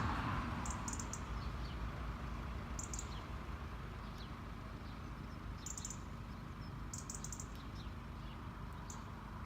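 Small birds chirping outdoors in short, high, rapid bursts that recur every second or two, over a steady low background rumble.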